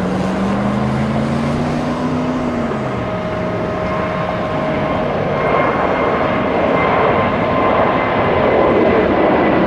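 Jet airliner engines running loud, the roar slowly building; a low hum glides up and falls away about two to three seconds in, and steady whining tones come in about four seconds in.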